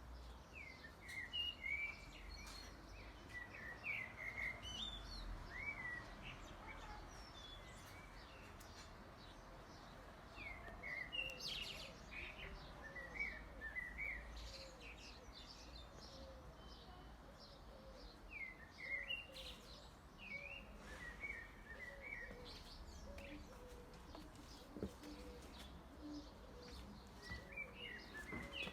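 Small songbirds singing: groups of quick, high chirping notes repeated in short phrases, with pauses of a few seconds between.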